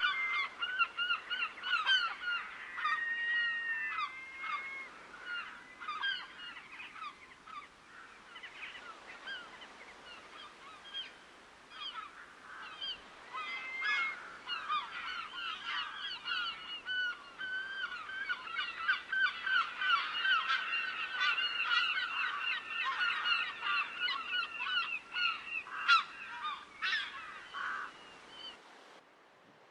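A flock of waterbirds calling over and over in short, overlapping honking cries. The calls thin out for a while, grow busy again, and then cut off suddenly shortly before the end.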